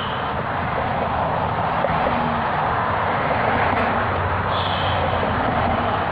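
Road traffic: a vehicle passing on the road, a steady rush of tyre and engine noise that swells toward the middle and eases near the end.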